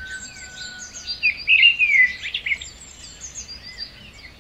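Several small birds chirping and twittering in quick, gliding calls, busiest and loudest between about one and two and a half seconds in. A thin, slowly falling whistle fades out about a second in.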